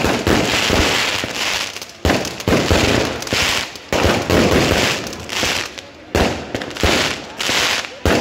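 Aerial fireworks going off in quick succession, roughly one or two shots a second, each a sharp bang followed by a spray of crackle that fades before the next.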